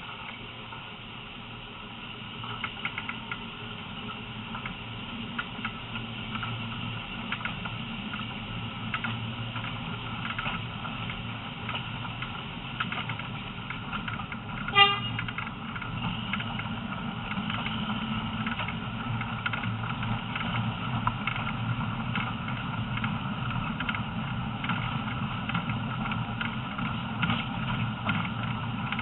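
Train running along the track: a steady rumble with clicks and clatters from the wheels and carriage, growing louder as it gathers speed. Near the middle there is one short toot from the train.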